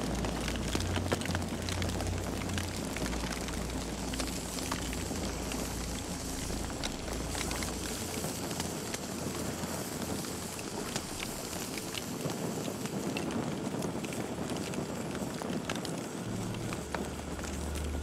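Campfire burning, wood crackling with frequent sharp pops over a steady hiss.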